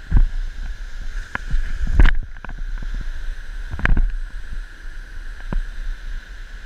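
Irregular thumps and knocks of footsteps and camera handling as someone clambers down a rough trail, the loudest about two and four seconds in, over a steady background hiss.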